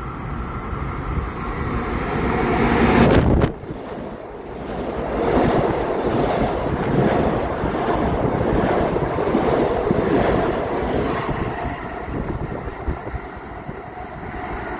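Long Island Rail Road electric multiple-unit train running close alongside the platform: a loud rush of wheels on rail and moving air that builds, cuts off sharply about three seconds in, then swells again for several seconds before easing off.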